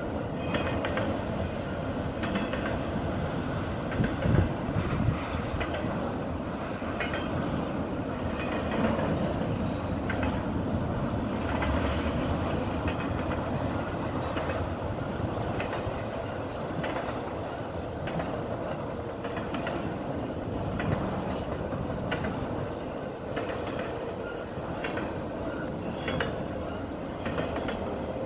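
Norfolk Southern intermodal freight train's container cars rolling past: a steady rumble of steel wheels on rail, with irregular clicks and knocks as the wheels cross rail joints, and a few heavier knocks about four seconds in.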